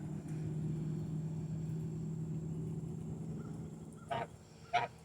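Domestic gander giving two short honks about half a second apart, near the end, over a steady low hum that fades away.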